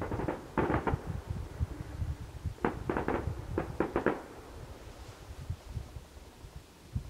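Distant fireworks going off: a few bangs in the first second, then a quick run of about half a dozen reports between about three and four seconds in.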